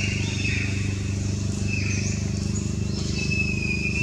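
Birds whistling in the trees, several falling whistles and one held note about three seconds in, over a steady low drone.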